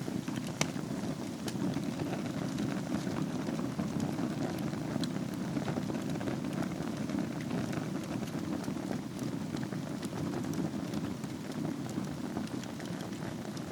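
Wood fire burning in a fireplace over a bed of embers: a steady low rush of flames with scattered small crackles and pops.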